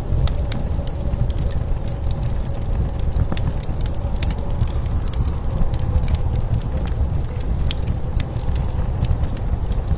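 Wood fire crackling with irregular sharp pops over the steady low rumble of blizzard wind, with a faint held whistle in the wind.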